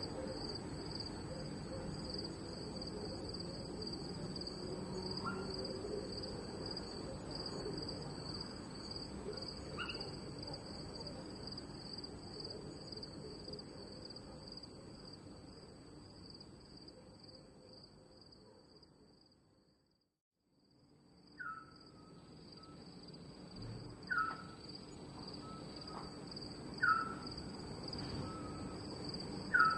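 Crickets chirping steadily in a high, even band. The whole soundscape fades out to silence about two-thirds of the way in and fades back in. After that, a short falling animal call repeats about every three seconds.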